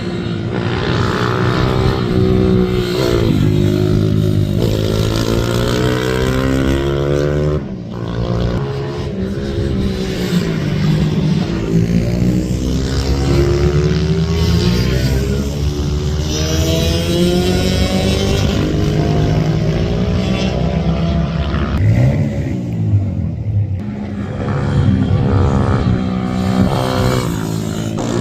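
Several racing minibike engines running at high revs together, their pitches overlapping and repeatedly rising and falling as the riders accelerate and back off through the corners.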